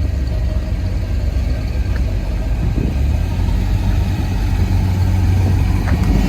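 A car engine idling with a steady low rumble that grows a little louder toward the end.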